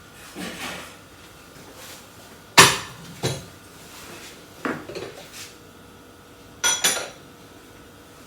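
A microwave-safe bowl and its lid being handled, knocking and clinking several times. The loudest knock comes about two and a half seconds in, and a quick double clink with a ringing edge comes near the end.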